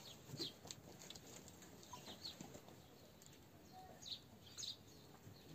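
Faint short bird chirps, a few scattered through the quiet, over low background hiss.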